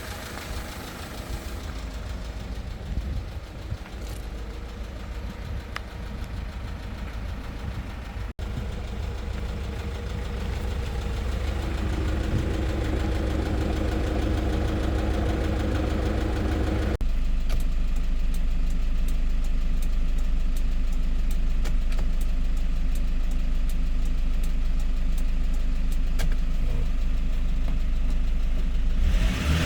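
Diesel engine of a 2016 Hyundai Porter II truck idling steadily. About halfway through the sound changes abruptly, becoming louder and steadier.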